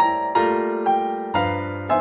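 Background music played on piano: single notes struck about twice a second over held lower notes, each note fading after it sounds.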